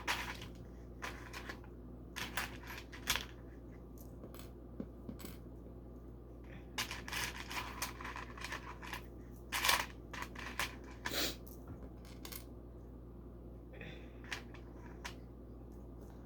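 Plastic LEGO pieces clicking and rattling as they are handled, sorted and pressed together, in irregular bursts of small hard clicks and rustles, over a steady low hum.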